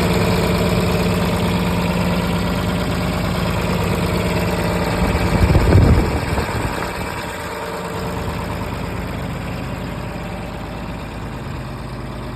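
Tractor engine running steadily. About halfway it rises briefly louder with a change in pitch, then settles to a lower, quieter run.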